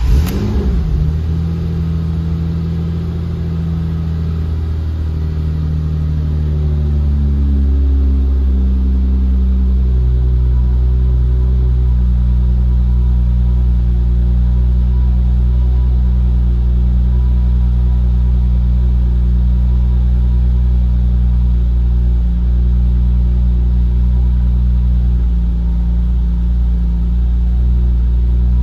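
BMW E30's engine idling just after a cold start. Its pitch steps down over the first ten seconds or so as the fast idle settles, then it runs steady at about 1,000 rpm.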